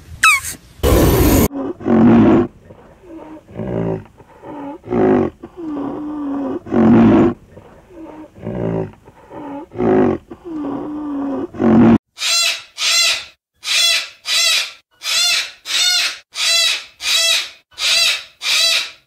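Animal calls. First comes a loud burst, then a string of low, drawn-out calls that bend in pitch. About twelve seconds in, these give way to cockatoos screeching: a regular run of about a dozen short, shrill screeches, roughly two a second.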